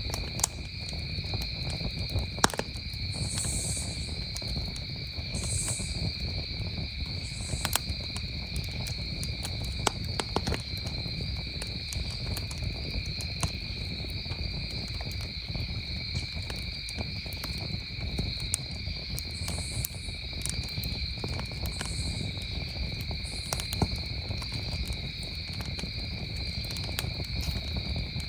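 Wood campfire crackling, with scattered sharp pops, a few of them louder, over a low rumble; behind it a chorus of crickets keeps up a steady, unbroken high trill.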